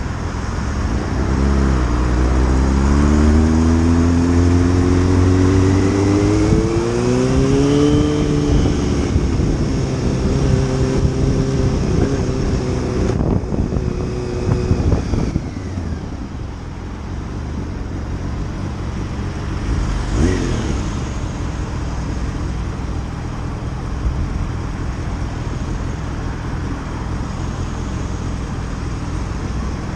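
Motorcycle engine accelerating, its pitch climbing steadily for several seconds and then holding before the engine eases off about fifteen seconds in, leaving steady road and wind noise. A brief louder swell comes about twenty seconds in.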